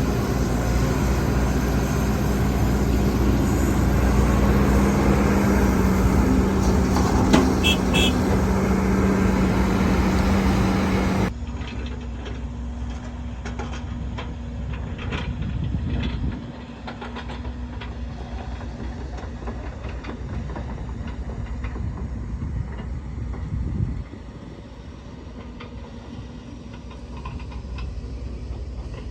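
Diesel engines of heavy earthmoving machinery running steadily. About 11 seconds in, the sound changes abruptly and becomes quieter.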